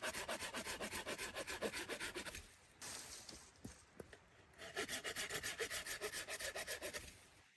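Fast, even rasping strokes of a hand tool working wood, such as a saw cutting or a rasp filing. The strokes pause for about two seconds in the middle, then start again.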